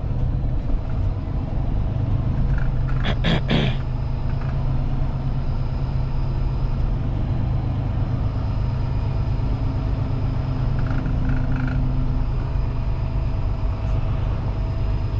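Semi truck engine running steadily with a low drone. About three seconds in, a brief sharp noise lasting about half a second.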